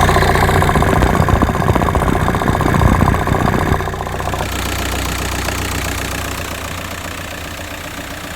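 Ford Galaxy's 1.9 TDI diesel engine running. It is louder for about the first four seconds, then steps down and grows gradually quieter.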